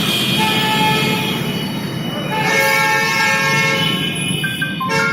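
Vehicle horns honking over steady road-traffic noise. Several horns sound at different pitches, and more join about halfway through.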